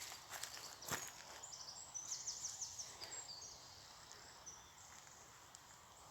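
A couple of footsteps, then a small bird singing a quick run of high, repeated notes about two seconds in, faint over the open-air background.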